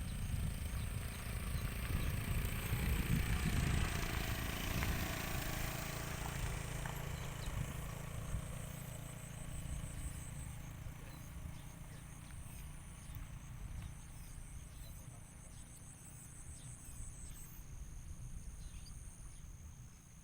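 Outdoor ambience: a steady high insect trill, some of it pulsing evenly, over a low rumble that is loudest in the first few seconds and then fades. Faint short high chirps are scattered through the later part.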